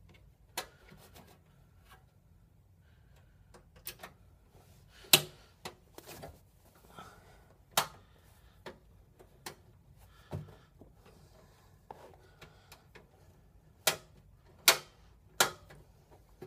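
Irregular sharp clicks and clacks, about a dozen spread out, the loudest about five seconds in and three close together near the end: a screwdriver and screw knocking against the metal of a PC case while the screw for a graphics card is being driven in.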